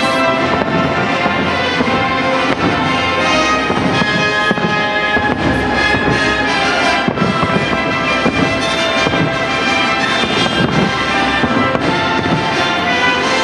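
Loud music with fireworks bursting over it, the bangs scattered and irregular.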